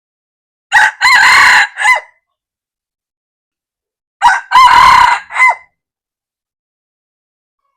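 Red junglefowl rooster crowing twice, about three and a half seconds apart. Each crow is short and clipped: a quick first note, a longer middle note and a brief trailing note.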